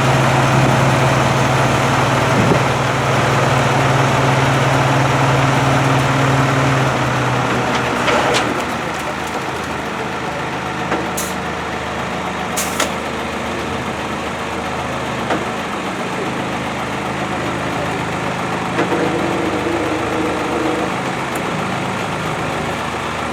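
Isuzu FVZ34 dump truck's diesel engine running at raised speed with a strong steady hum, then dropping back to idle about eight seconds in. It keeps idling, with a couple of short sharp clicks a few seconds later.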